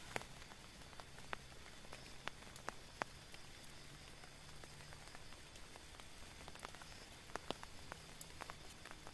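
Rain falling on a tent: a soft steady hiss with irregular, sharp taps of single drops, a few louder than the rest.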